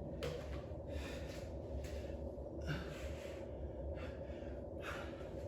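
A man breathing heavily through his mouth or nose, three loud breaths about two seconds apart, over a steady low hum.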